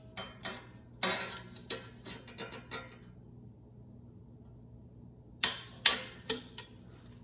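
Wrench work on engine bolts with metal tools: a clatter of small metallic clinks and ticks over the first few seconds, then three sharp metallic clicks in quick succession a little past the middle.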